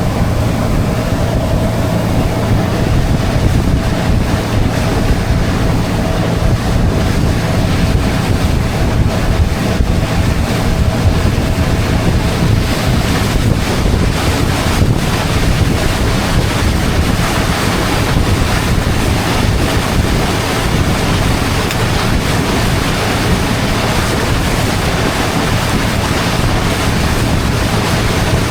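Motorboat engine running steadily as the boat travels, with wind buffeting the microphone and water rushing past the hull.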